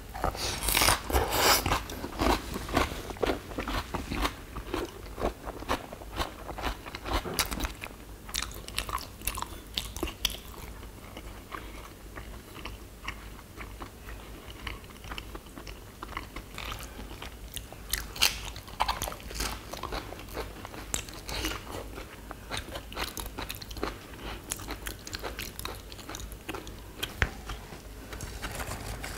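Close-up crunching and chewing as raw leafy-vegetable wraps (ssam) with rice and duck bulgogi are bitten and eaten. Loud, crisp bites come in the first couple of seconds and again around eighteen seconds, with softer wet chewing clicks between.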